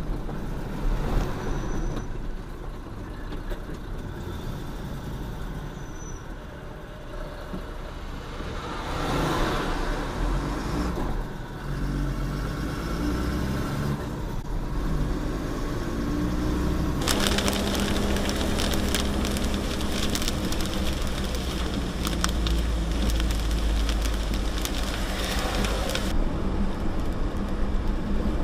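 Truck engine and road noise while driving, a steady low engine note that grows louder and fuller about two-thirds of the way through, as if under load, then eases near the end.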